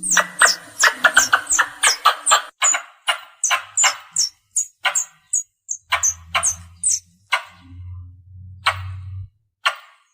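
Squirrel calls: a fast series of sharp, high chips, each with a short falling squeak at the top. They come about four or five a second at first and slow to about two a second, the call used to bring other squirrels in.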